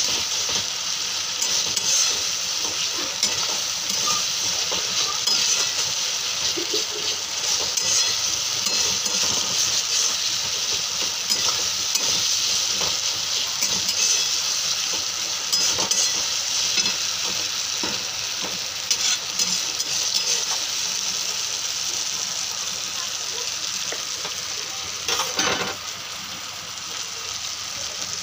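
Onion-tomato masala sizzling as it fries in a frying pan, with a spatula scraping and stirring through it. A brief louder noise comes near the end.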